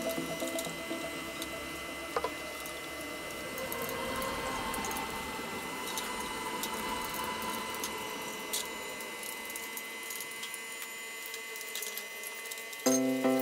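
Steady swishing of water or liquid, with a few small clicks.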